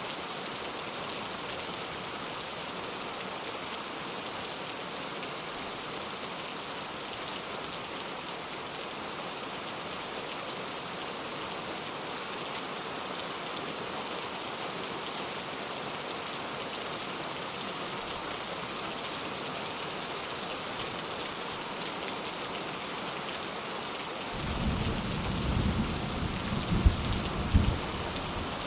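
Steady rain falling in an even hiss. Near the end a low rumble of thunder swells up, with a few louder peaks.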